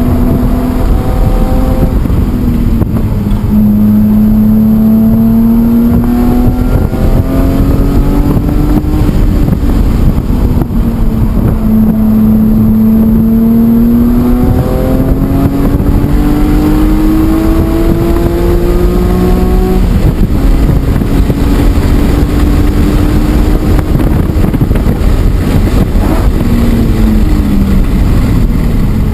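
BMW E46 M3's S54 straight-six engine at full throttle on a race track, its pitch climbing through the revs and dropping at each gear change, several times over. Heavy wind and road noise run underneath.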